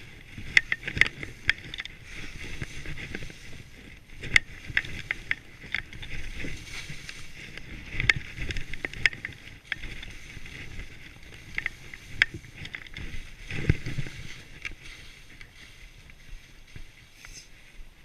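Skis running through deep fresh powder snow: a continuous hissing swish that rises and falls through the turns, with many sharp clicks and knocks along the way.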